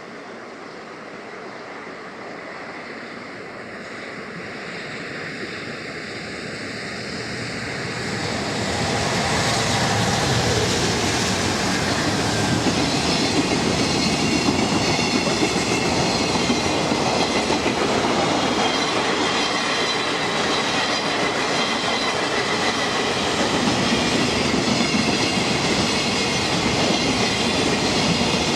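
Electric freight train, an EF210 locomotive hauling container wagons, approaching and passing close by. It grows louder over the first eight seconds or so, then the wagons go by with steady wheel clickety-clack on the rail joints.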